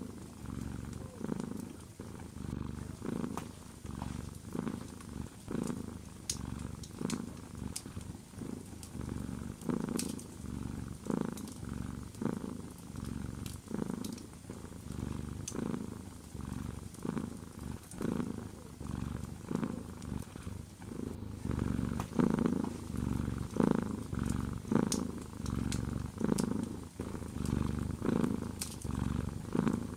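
Domestic cat purring close up, the purr swelling and fading with each breath in and out, with scattered sharp crackles from a wood fire in a fireplace.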